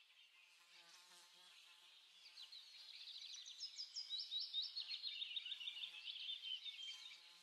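Small songbirds twittering in fast, high trills of short chirps, louder in the middle and fading near the end.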